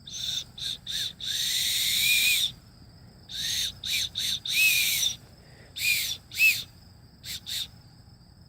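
Bird-call whistle being blown in a string of about a dozen short breathy toots of uneven length, one held for over a second; the longer toots end with a pitch that rises and falls.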